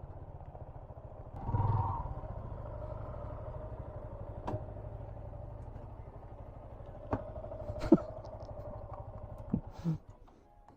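Motorcycle engine running steadily at low speed, swelling louder briefly about a second and a half in, with several sharp clicks and knocks in the second half; the engine sound drops away near the end.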